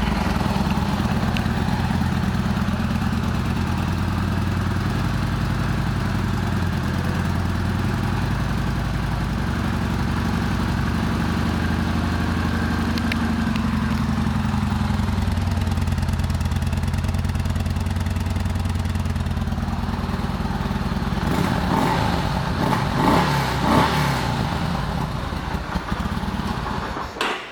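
Yamaha Bolt 950's air-cooled V-twin engine idling steadily just after being started, with a few brief throttle blips about three quarters of the way through before it shuts off at the end.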